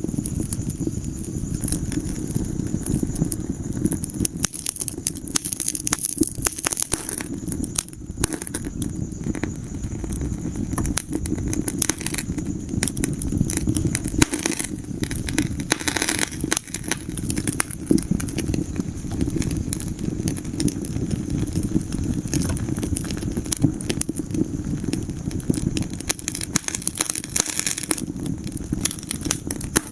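Wood fire crackling in a fireplace: a dense, irregular run of pops and snaps over a steady low rumble of the flames.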